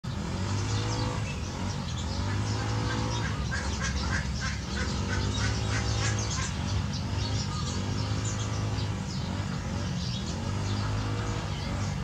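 Birds calling repeatedly, with many short high chirps over a steady low hum.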